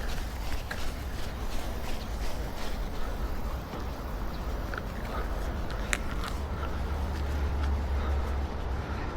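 A runner's footsteps at about two to three strides a second, clearest in the first few seconds. Under them is a low wind rumble on the body-worn microphone that grows stronger in the second half, and a single sharp click comes about six seconds in.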